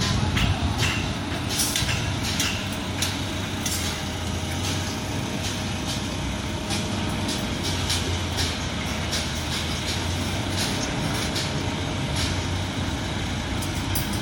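Heavy diesel construction machinery running with a steady low drone, overlaid by irregular sharp metallic clanks and knocks, most frequent in the first few seconds.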